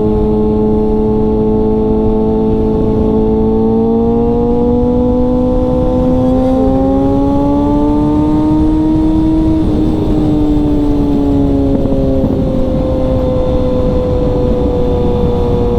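Inline-four sportbike engine running at steady high revs, its pitch slowly rising for several seconds and then easing back down, over a low rush of wind and road noise.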